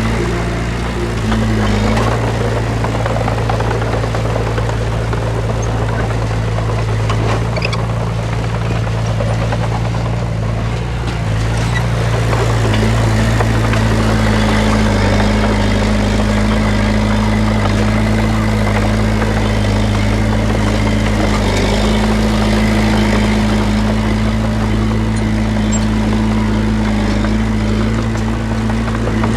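Heavy diesel engine of an earthmoving machine running steadily and loudly under load, with a brief dip in loudness about a third of the way in.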